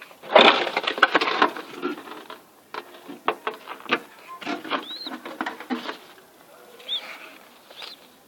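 Kept birds making a rattling clatter of quick clicks and flutters, loudest in the first second or so, with a few short high chirps about halfway through and near the end.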